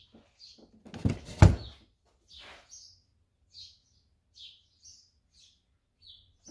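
A couple of sharp knocks and clatters about a second in, then birds chirping in short, high notes roughly once a second.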